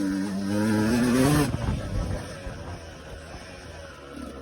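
Yamaha YZ125 dirt bike's two-stroke single-cylinder engine revving, its note climbing for about a second and a half before the throttle shuts and it drops to a quieter, lower running sound.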